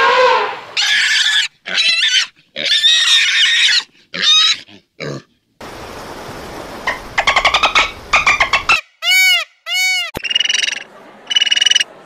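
Edited run of animal calls: an elephant's trumpet trails off at the start, followed by several short separate calls. From about halfway, bottlenose dolphin sounds take over: rapid clicking pulses, then arching whistles and short squeaky bursts.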